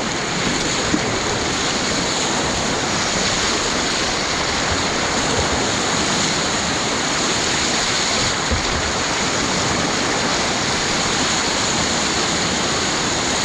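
Whitewater of a river rapid rushing steadily, a continuous even wash of water noise.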